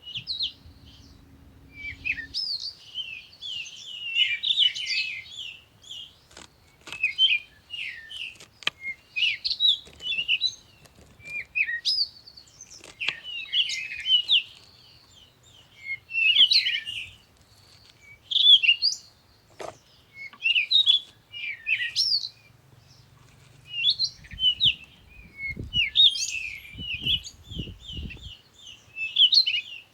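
Songbirds singing steadily, with many overlapping chirps and short repeated phrases. A few sharp clicks come through, and a run of low thuds from handling follows near the end.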